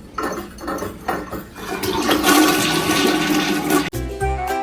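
Rushing water, swelling over about four seconds, then cut off abruptly as music starts.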